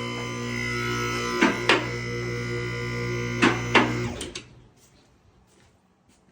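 Electric hydraulic pump motor of a car lift running with a steady hum while the lift's safety locks click in pairs about every two seconds as the car is raised. The motor stops abruptly about four seconds in, followed by a few faint ticks.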